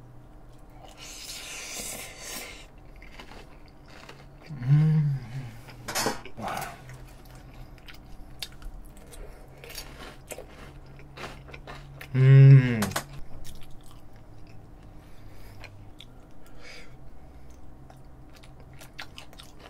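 Close-up chewing and slurping of a mouthful of tomato spaghetti with garlic bread: a slurp near the start, then wet mouth clicks. Two short hummed voice sounds, about five seconds in and, louder, about twelve seconds in.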